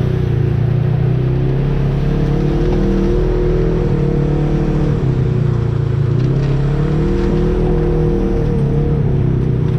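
Off-road vehicle engine running steadily, its revs rising and falling a little.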